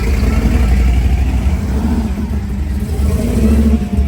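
A car engine running loudly, its revs rising and falling.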